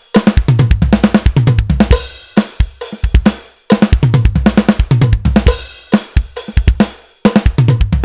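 Drum kit played: fast runs of hand strokes on snare and toms alternating with bass drum kicks, in a punk-rock fill grouped right hand, left hand, kick. A crash cymbal rings out, and the run starts again about every three and a half seconds.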